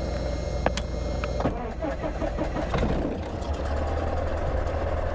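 Cessna 152 engine start: the starter cranks with a steady whirr, the engine catches about a second and a half in, runs unevenly for a moment, then settles into a steady low idle.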